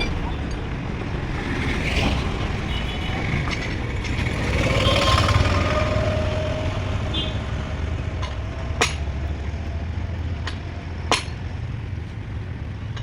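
A vehicle engine running steadily, with a brief rising tone about five seconds in and two sharp knocks in the second half.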